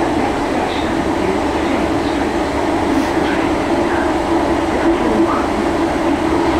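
Interior running noise of an unrefurbished Merseyrail electric train under way: a steady drone of motors and wheels on the track.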